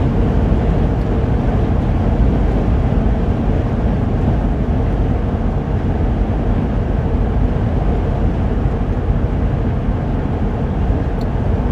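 Steady engine drone and road noise inside the cab of a Class C motorhome cruising at highway speed.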